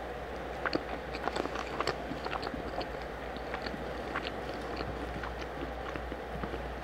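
Close-up chewing and mouth sounds of a person eating rice, beans and egg, with small wet clicks most frequent in the first two seconds. Underneath is the steady hiss of heavy rain.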